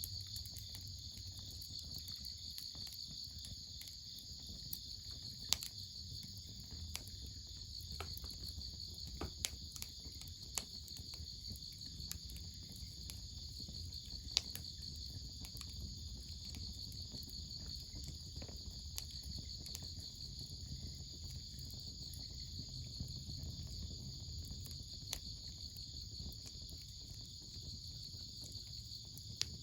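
A steady, high insect chorus of chirping trills, with scattered sharp pops and crackles from a wood fire.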